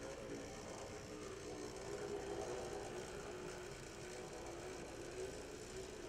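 HO-scale brass model steam locomotive running, its open-frame motor and gear train giving a steady whirring whine that wavers a little in pitch. The model is noted for gear noise.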